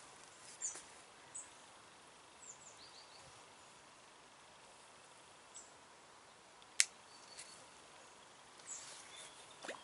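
Quiet outdoor background hiss with scattered short, high bird chirps, and one sharp click about seven seconds in.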